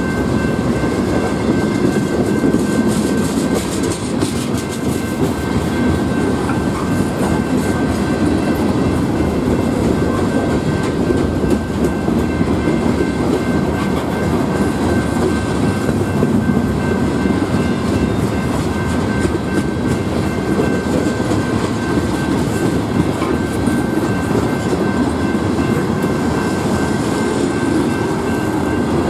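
Freight train cars rolling past at speed: a steady rumble of steel wheels on rail with clickety-clack over the joints. A thin steady high tone sits above the rumble.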